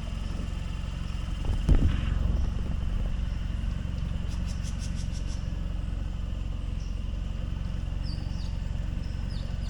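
Dinghy outboard motor running steadily at low speed, with one loud thump about two seconds in. Faint high ticks and chirps come over it in the middle and near the end.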